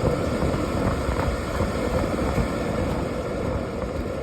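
Dehumidifier blower fan running steadily on its lowest speed setting: an even rush of air with a low hum.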